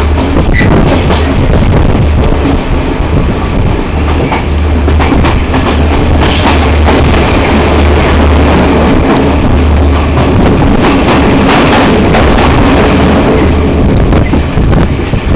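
Train running on rails: a steady heavy low rumble with scattered clicks and knocks from the wheels and carriages.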